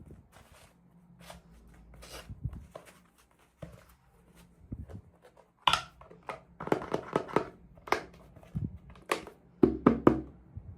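Hands unboxing small plastic toys: scattered clicks, taps and rustles of packaging and small pieces being handled, quicker and louder from about halfway through.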